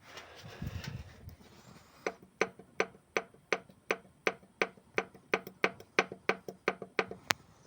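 Knocking from a Lada Largus's K7M 1.6-litre eight-valve petrol engine. Sharp, evenly spaced knocks, about three a second, start about two seconds in after a low rumble.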